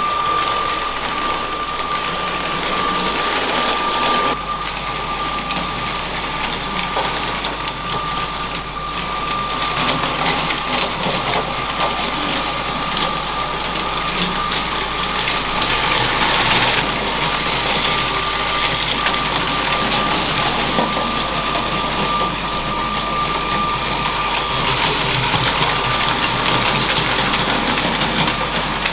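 LEGO train running on plastic track: a steady motor whine with the rattle and scattered clicks of wheels on the rails.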